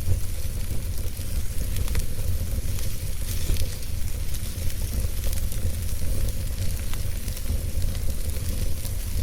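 Wood fire burning: a steady low rumble under a hiss, with scattered small crackles and pops.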